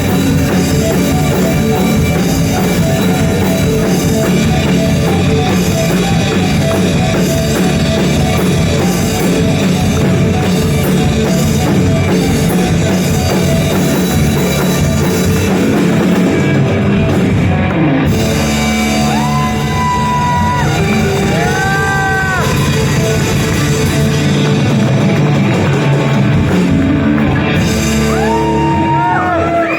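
Live rock band playing, with drum kit and electric guitar filling the sound at a steady loud level. In the second half, high held notes bend up and down in pitch over the band.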